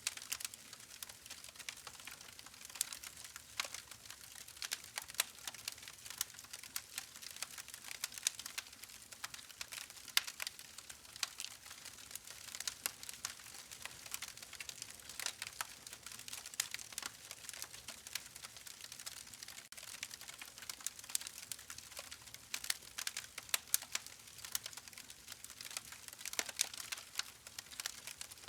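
Campfire crackling: a continuous stream of irregular sharp pops and snaps.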